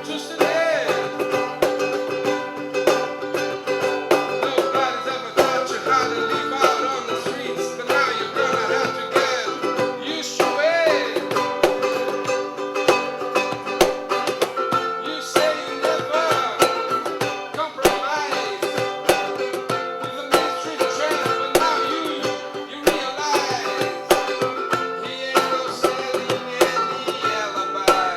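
Live acoustic band music: a strummed acoustic guitar and other plucked strings over hand percussion, played at a steady groove.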